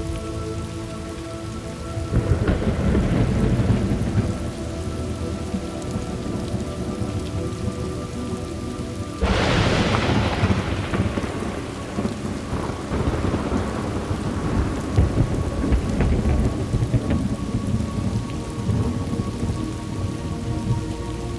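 Thunderstorm: steady rain falling, a rumble of thunder about two seconds in, then a sudden sharp thunderclap near the middle that rolls on for several seconds.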